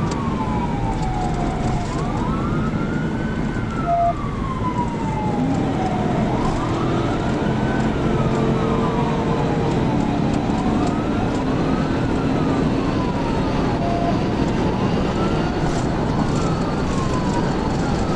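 Police car siren wailing, its pitch rising and falling slowly about every four seconds, over loud steady road and engine noise.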